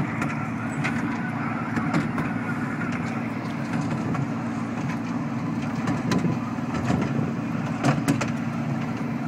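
Miniature park train running steadily, heard from on board: a low, even engine hum with scattered light clicks.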